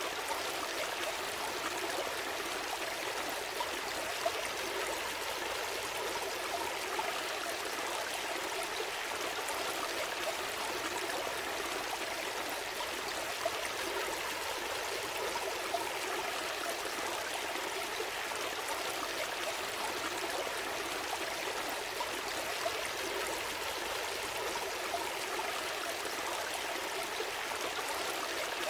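A gentle stream flowing steadily: a continuous, even rush and babble of water, with a few faint brief splashes.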